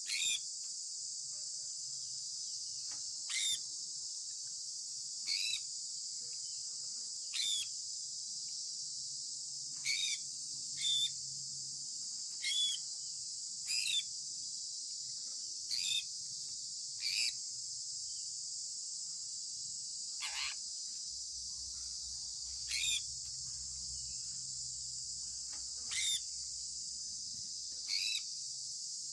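Sun conure parrot giving short, sharp chirps about every two seconds, over a steady high-pitched hiss.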